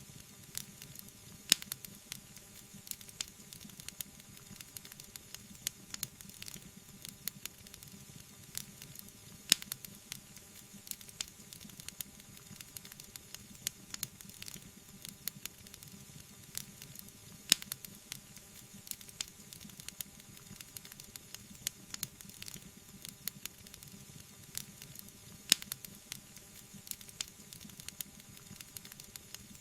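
Wood fire burning with a soft steady hiss and frequent small crackles and pops, a louder sharp pop standing out about every eight seconds.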